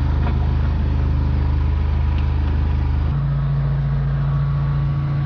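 Engine of a high-pressure sewer jetter running steadily with a low hum, its note shifting abruptly about three seconds in.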